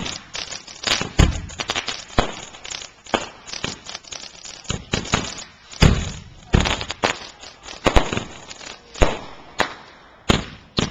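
Consumer fireworks finale board firing: an irregular run of sharp bangs from shells launching and bursting, with crackling between them.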